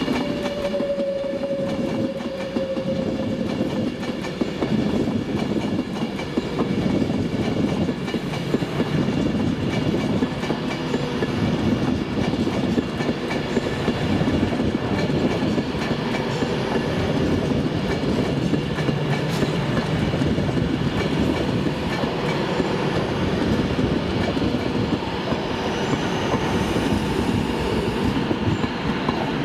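A train running through a railway station, its wheels clattering steadily over the rails for the whole stretch, with a faint tone sliding down in pitch in the first few seconds.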